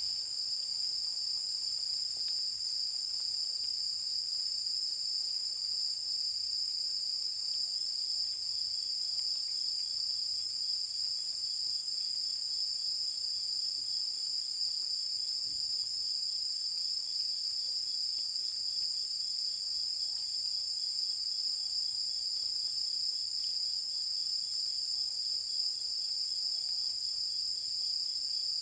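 Chorus of crickets and other singing insects, a dense, steady high-pitched trilling that never lets up, with a fainter rapidly pulsing call a little lower in pitch beneath it.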